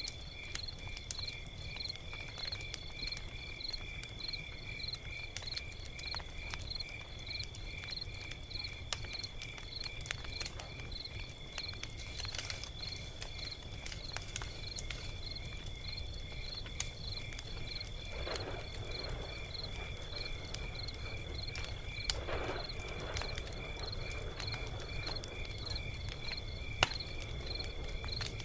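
Log fire crackling with scattered sharp pops and a low steady rumble, one pop standing out near the end. Throughout, a steady high-pitched insect chorus pulses about twice a second.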